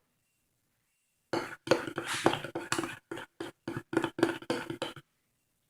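A spoon handle knocking and scraping against a cup while stirring clear glue, a quick, irregular run of clicks and clinks starting about a second in and stopping shortly before the end.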